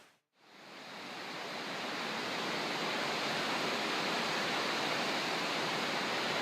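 A steady rushing of wind and sea water, fading in over about a second after a brief silence and then holding even.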